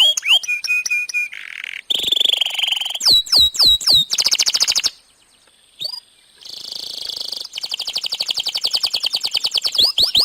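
Domestic canary singing a long, varied song: fast rolling trills, quick repeated down-sliding whistles and buzzy note runs, broken by a short pause about halfway through.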